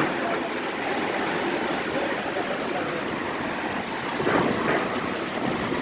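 Heavy rain pouring down, a steady rushing noise.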